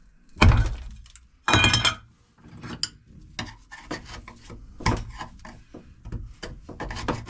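Hand tools knocking, scraping and clinking on metal engine-mount parts. There is a heavy knock about half a second in and a louder rasping clatter around a second and a half, then a run of lighter clicks and scrapes.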